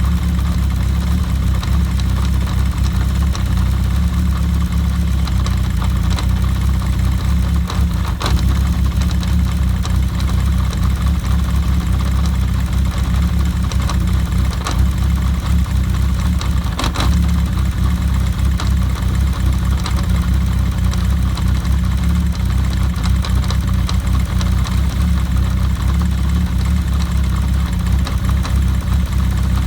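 Kawasaki GPz750 Turbo's air-cooled inline-four engine running steadily at idle with a rattling, clattery noise and occasional sharp clicks, which the owner takes for abnormal cam chain noise.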